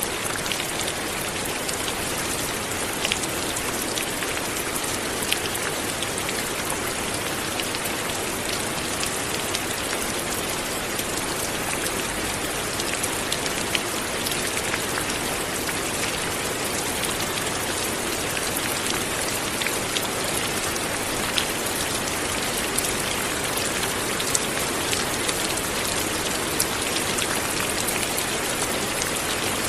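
Light rain falling steadily, a dense even hiss with many individual drops ticking on a surface.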